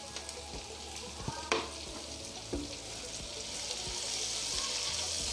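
Cooking oil sizzling in a frying pan with capsicum, with a few sharp clicks of a utensil against the pan early on; the sizzle grows louder from about halfway through.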